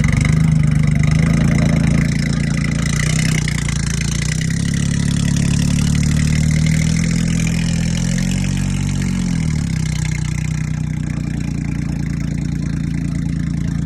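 A car engine idling, then held at raised revs for several seconds before the revs drop back to idle.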